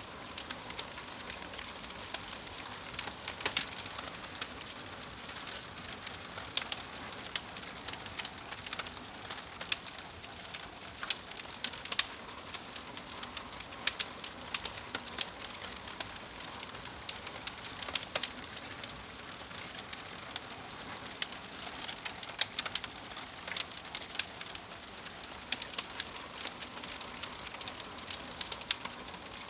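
Crackling fire: a steady hiss with frequent irregular sharp pops and snaps.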